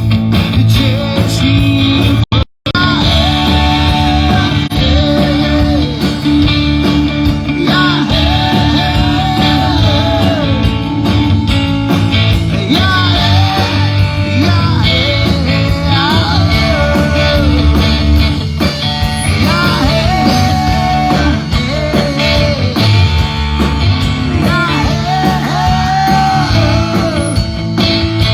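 Live rock band playing a song, with a lead singer over electric guitar and bass. The sound drops out completely for a split second about two and a half seconds in.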